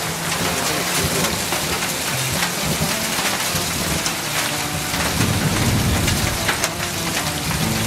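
Heavy rain mixed with hail pelting down: a dense, steady hiss dotted with many sharp ticks of hailstones striking.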